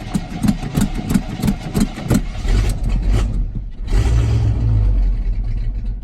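Old carbureted pickup truck engine cranking on the starter at about three turns a second, catching about two seconds in and running unevenly, then dying near the end: a cold start that stalls.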